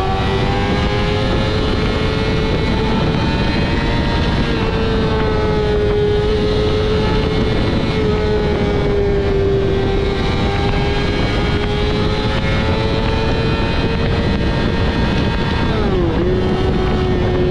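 Yamaha R6 inline-four sport bike with a Two Brothers full exhaust system, running at high revs under steady riding. Its pitch rises and falls gently, with wind rushing past. Near the end the pitch dips quickly and then climbs back.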